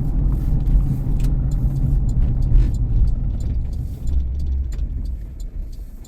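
Car engine and road noise heard from inside the cabin while driving: a steady low drone that eases off toward the end.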